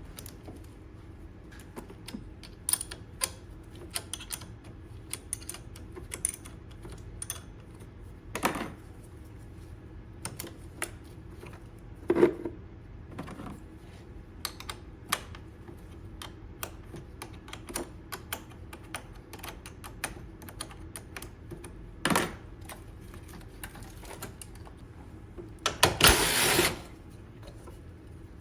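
Irregular light clicks and knocks of tools and metal parts being handled, with a louder, hissing burst of about a second near the end.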